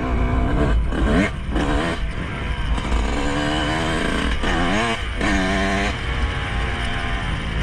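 Yamaha YZ125 two-stroke dirt bike engine revving while riding, its pitch rising and falling several times as the throttle opens and closes, over a steady low rumble.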